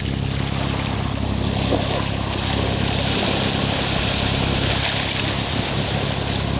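A sailboat's inboard engine running steadily under way, a constant low hum, with water rushing along the hull as a hiss that grows a little louder about a second and a half in.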